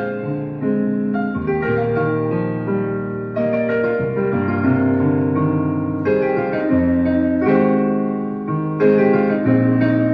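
Piano music: chords with a melody above them, changing every second or so.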